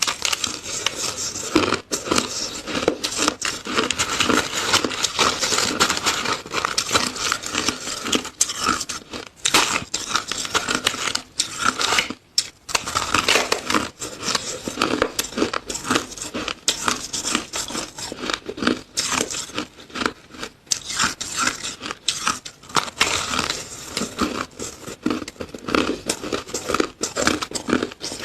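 Close-miked crunching and chewing of frozen shaved ice: dense, continuous crackling crunches, with a brief break about halfway through.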